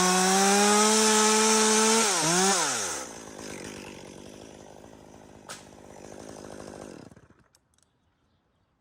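Two-stroke chainsaw running at full throttle, then the throttle is let off about two seconds in and the engine falls to a low idle. It idles quietly for a few seconds, with one sharp click, and cuts off suddenly near the end.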